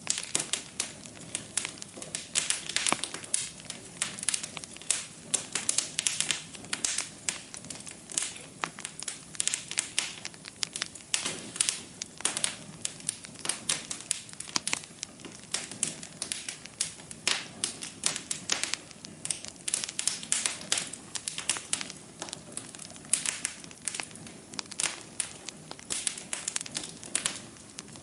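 Wood fire crackling in a fireplace: a dense run of sharp, irregular pops and snaps over a low hiss.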